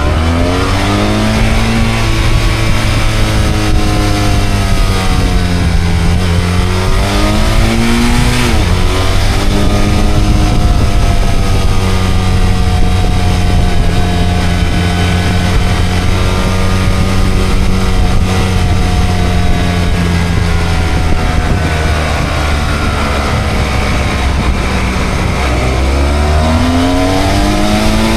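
Motorcycle engine running under way, its revs rising and falling several times, with a long steady cruising stretch in the middle.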